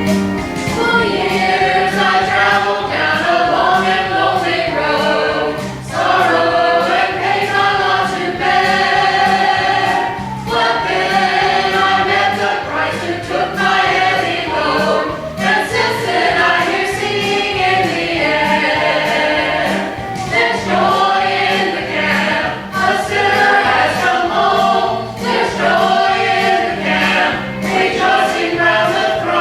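Gospel song sung by a small group of voices in harmony, with instrumental backing.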